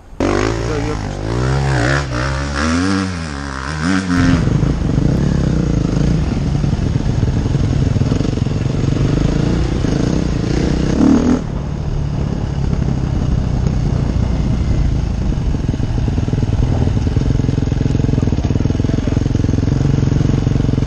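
Enduro motorcycle engine revving up and down several times in quick succession, then running steadily under load.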